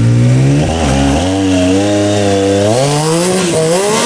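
Yamaha YXZ1000R's three-cylinder engine revving hard under load on a rocky climb, its pitch dropping early on, holding, then rising and falling again near the end as the throttle is worked.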